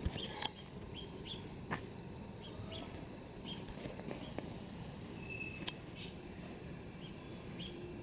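Small birds chirping: short, high chirps repeated irregularly, roughly one or two a second.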